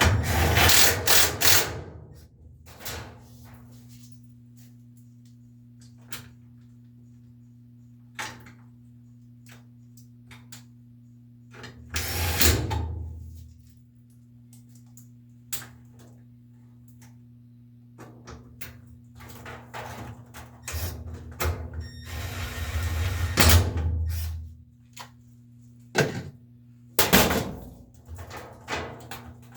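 Tools and washer parts being handled during repair work: scattered clicks and knocks, with three longer, louder bursts near the start, about twelve seconds in and about twenty-three seconds in, over a steady low hum.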